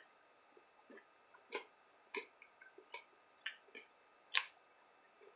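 A person chewing crunchy chocolate-covered Skor minis with the mouth: faint, irregular crunches and wet clicks, roughly one every half second, with a louder crunch a little after four seconds.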